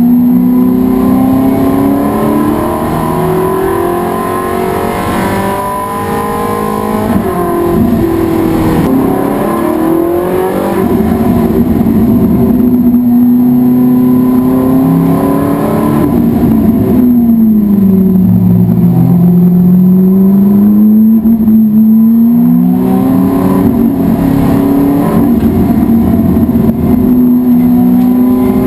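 Race car engine running hard on track, its pitch climbing through the gears and dropping on lifts and braking; about two-thirds of the way through it falls low and then climbs back up as the car accelerates again.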